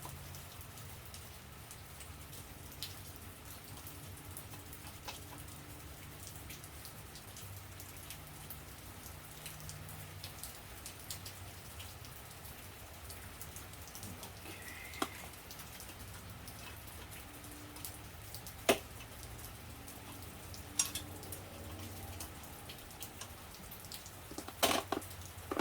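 Steady rain patter, with a few sharp clicks of handling or tools on metal in the second half.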